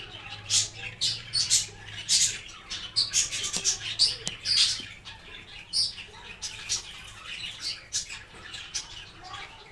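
Cockatiels chirping, short high calls repeated several times a second.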